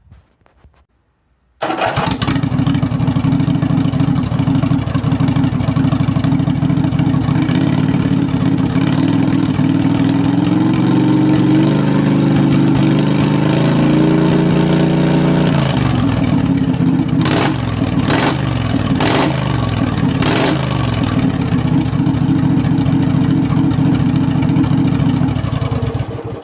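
Briggs & Stratton V-twin mower engine with a home-made exhaust starting about a second and a half in and running loudly. Its speed climbs gradually for several seconds, then drops back, followed by four sharp cracks a second or so apart.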